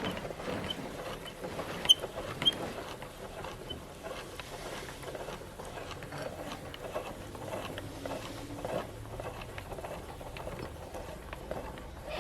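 Meat grinder crushing caramel cake: a dense, continuous run of small crackles and crunches, with two sharp louder clicks about two seconds in.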